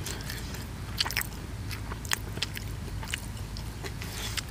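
People eating at close range: chewing mouthfuls of minced raw-fish laab with sticky rice and greens, with scattered, irregular sharp clicks.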